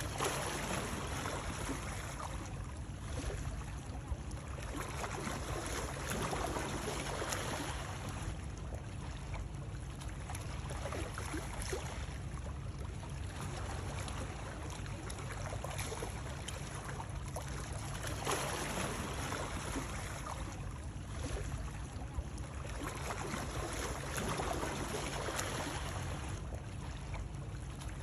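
Water noise, a steady wash that swells and eases every six seconds or so, used as soothing white noise.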